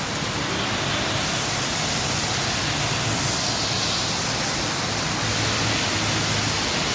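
Rain falling steadily, an even hiss with no separate drops or knocks standing out.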